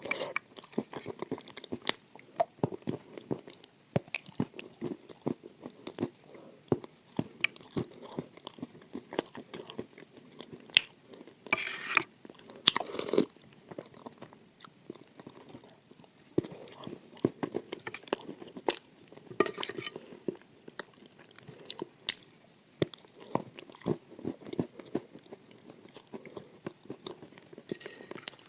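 Close-miked eating of crunchy food: a steady run of sharp crunches and chewing, with two longer, louder crunching bites about twelve and thirteen seconds in.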